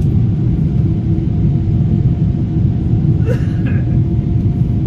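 Steady, loud cabin rumble of a Boeing 777 climbing after takeoff, its GE90 engines at climb power and the airflow heard from a seat by the wing, with a faint steady tone above the roar.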